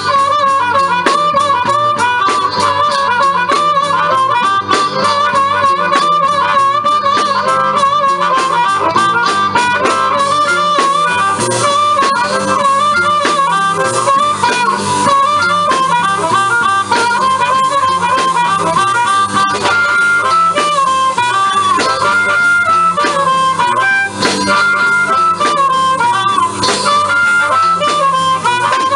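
Live blues: a harmonica solo with bending, wavering notes over a steadily strummed guitar rhythm.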